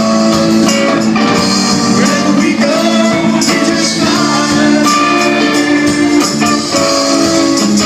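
A band playing live: sustained chords and held notes with tambourine shaken in time, and some singing.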